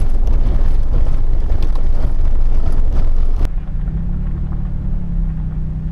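Off-road vehicle driving on a dirt road: a loud, rough rumble of tyres and wind with gravel crackling. About three and a half seconds in it cuts off abruptly to a steadier, quieter low engine drone.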